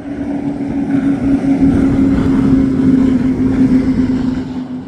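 High-performance powerboat engines passing at speed: a loud, steady drone that swells to a peak two to three seconds in and then eases, its pitch sinking slightly as the boat goes by.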